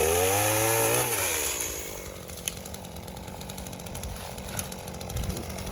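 Two-stroke chainsaw coming off the throttle: its engine note falls for about a second, then it idles quietly.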